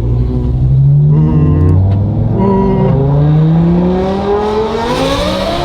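Sports car engine under hard acceleration from a launch, its pitch climbing and dipping at gear changes, then rising steadily.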